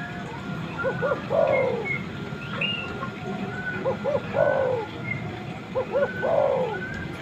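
Spotted dove (tekukur) singing its cooing song, about three phrases in a row, each a couple of short hoots followed by a longer falling coo. Small birds chirp faintly in the background.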